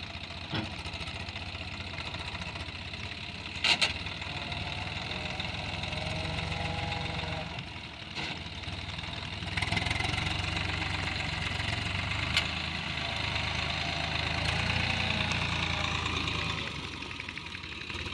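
Tractor diesel engine running, louder from about halfway through and easing back down near the end, with a sharp knock about four seconds in.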